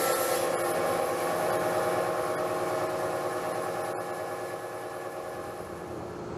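A power tool's motor running steadily, a hum of several held tones over a hiss, slowly getting quieter.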